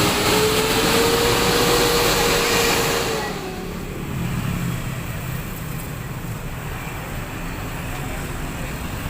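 Bus passing close, its engine note rising slightly for about three seconds, then falling away to a steadier low rumble of engines idling.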